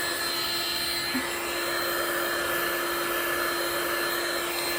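Handheld hot-air blower running steadily, a constant rushing noise with a steady hum and a high whine, used to push white resin into waves on a coaster.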